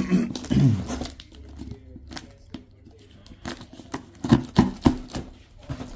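Handling noises: a brief voice-like sound at the start, then a run of sharp clicks and knocks, the loudest few about four and a half seconds in.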